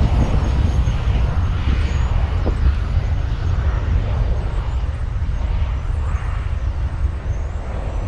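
Jet airliner engines passing close by, a loud rumbling roar that slowly fades as the aircraft moves away.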